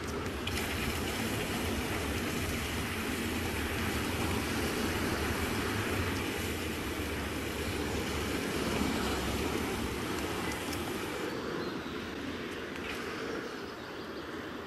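Steady rumble and hiss of a bicycle ride: tyres rolling on the road, the bike rattling and wind on the camera's microphone. The higher hiss eases off about 11 seconds in.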